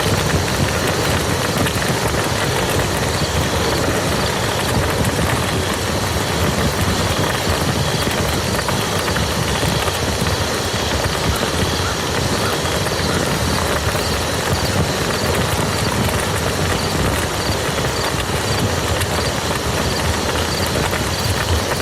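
Steady rain falling on a muddy field: a dense, even patter of drops.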